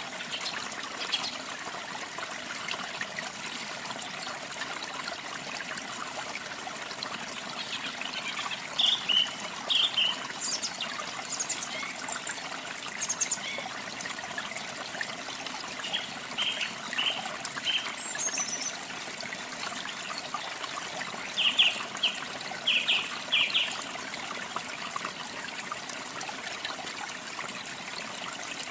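Steady running water, with small birds chirping in a few short clusters over it; the chirps are the loudest sounds, most of all a little past three quarters of the way through.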